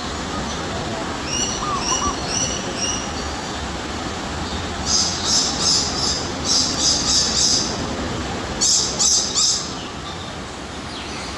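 Birds calling over a steady background rush: a run of four short, clear notes, then three groups of loud, harsh, rasping calls, three or four quick calls to each group.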